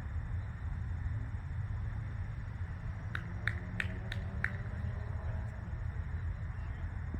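Steady low outdoor rumble, with a run of five sharp clicks, about three a second, a little before the middle.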